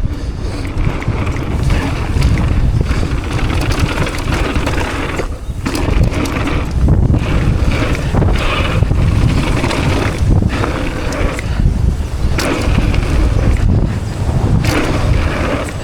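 Wind buffeting the camera microphone and mountain bike tyres rolling over a rough dirt trail, with knocks and rattles from the bike over bumps. The noise eases briefly a few times.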